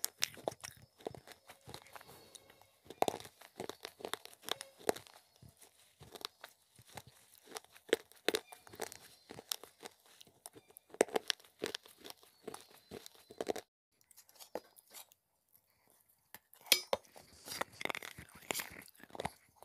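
Close-up chewing and crunching of clay in the mouth: a rapid, irregular string of crisp crunches and wet mouth sounds. It falls quiet for about three seconds near the end, then the crunching starts again.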